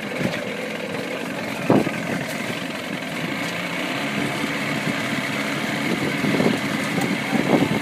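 Tow boat's engine running steadily, with a short knock about two seconds in.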